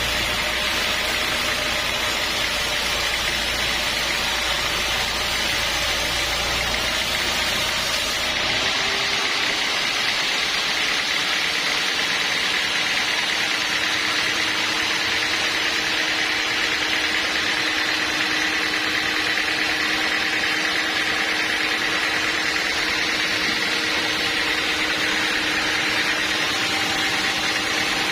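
Sawmill machinery running steadily, with a change in tone about eight seconds in as a deep low hum drops out and a higher steady hum takes over.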